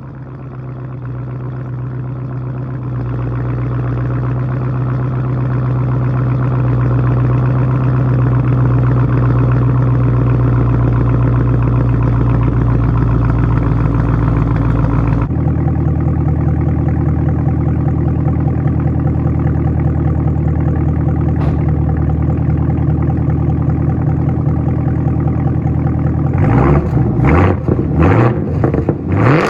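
Camaro ZL1's supercharged 6.2-litre V8 with its mufflers deleted, running at a cold-start fast idle that drops to a lower idle about halfway through. Near the end come about four quick revs.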